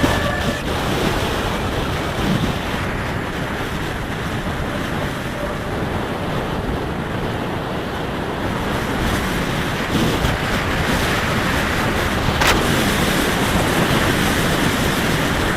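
Wind buffeting the microphone, a steady loud rushing noise, with a single short click about three quarters of the way through.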